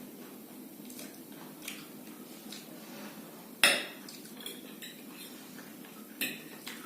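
Cutlery clinking and scraping on plates during eating, with scattered light clicks, a sharper clink about three and a half seconds in and another near the end.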